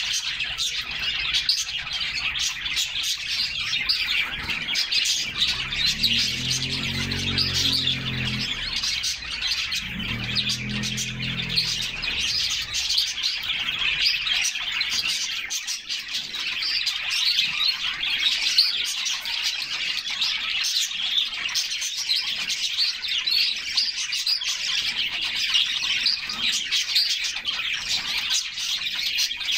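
Several canaries chirping and singing without pause, a dense stream of high twitters. Twice in the first half, a low hum rises beneath them for about two seconds.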